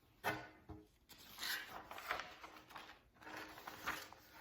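Paper rustling as a picture book's page is handled and turned: a short tap, then two longer rustles.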